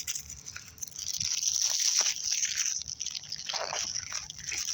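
Crinkling and rustling of plastic packaging being handled, starting about a second in.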